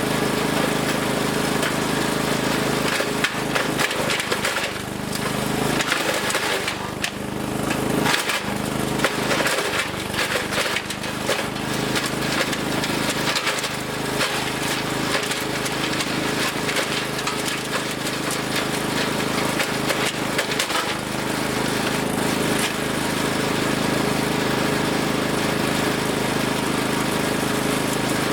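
Engine-driven wood chipper running steadily, with irregular cracking and snapping as branches are fed in and chipped, from a few seconds in until about two-thirds of the way through.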